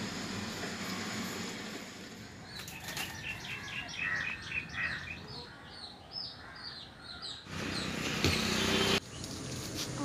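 Small birds chirping: a quick run of short, repeated high notes over a few seconds, followed near the end by a louder burst of hissing noise lasting about a second and a half.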